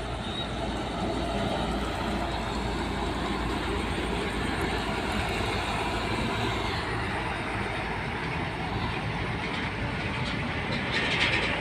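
Road traffic with heavy trucks driving past: a steady low rumble of engines and tyre noise, growing louder near the end as another vehicle comes closer.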